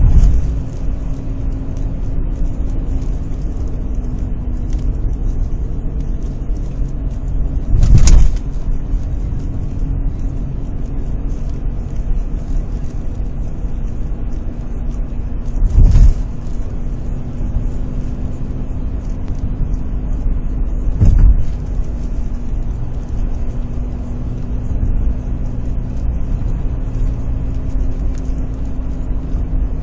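2004 Honda Accord driving, with steady low road rumble and a steady hum from the front end that the owner suspects is a bad wheel bearing or worn tyres. Three brief loud thumps break in along the way.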